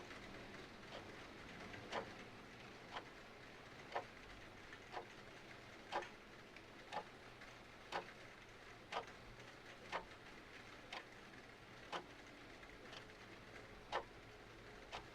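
Clock ticking once a second, the ticks alternating louder and softer, over a soft steady hiss of rain and fire.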